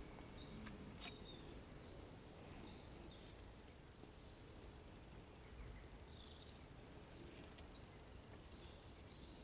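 Near silence: a faint outdoor hush with scattered short, high chirps of distant birds.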